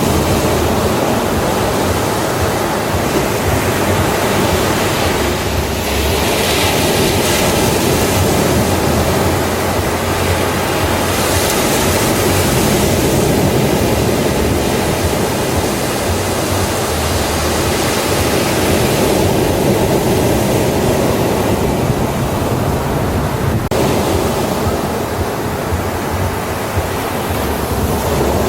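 Ocean surf breaking on a beach: a steady wash of wave noise that swells and ebbs slowly.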